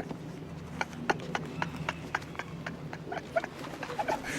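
Birds pecking at seed: a run of sharp, irregular taps, about three or four a second.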